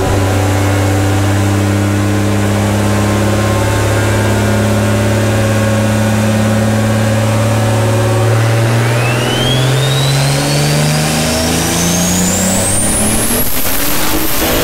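Turbocharged Toyota Supra engine making a full-throttle dyno pull at 32 psi of boost. The revs hold steady at first, then climb from about eight seconds in, with a high whine rising alongside, and drop away right at the end as the pull finishes.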